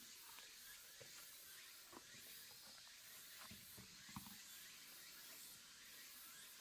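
Near silence: a faint steady hiss with a few soft taps, the clearest two about three and a half and four seconds in.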